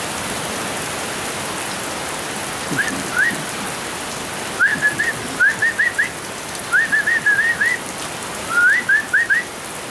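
Steady heavy rain, with short rising whistled notes in quick groups of three or four starting about three seconds in.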